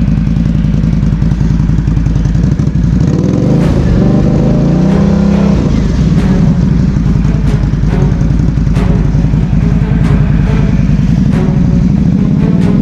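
BRP Outlander 650 ATV's V-twin engine running, revving up about three seconds in and dropping back after a couple of seconds, with scattered clicks and knocks. The quad is stuck in a bog.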